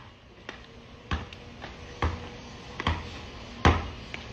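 Basketball being dribbled on a court: a thud every second or so, about four strong bounces, with lighter taps between.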